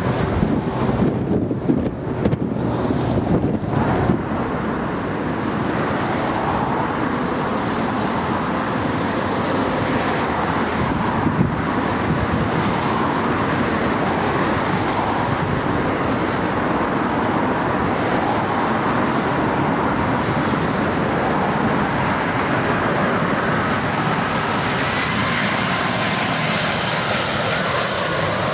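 Jet airliner engines passing close: a loud, steady engine noise with a faint high whine coming in near the end. Wind buffets the microphone in the first few seconds.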